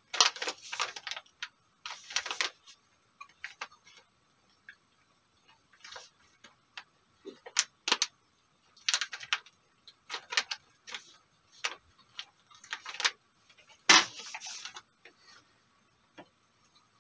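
Close-up eating sounds of a man chewing dried smoked bear meat: irregular short clicks and crackles from the mouth and from handling the meat, loudest just after the start, around nine seconds in and around fourteen seconds in.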